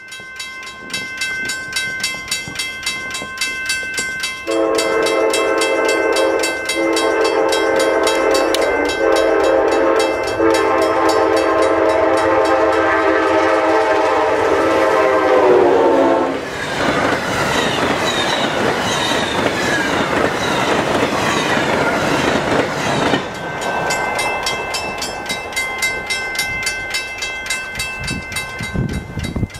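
Grade-crossing bell ringing steadily while a fast Amtrak train sounds its horn in several long blasts and a short one. The horn drops in pitch as the locomotive passes. The train then rushes by for about six seconds in a loud roar of wheels and blown snow, and the crossing bell rings on after it has gone.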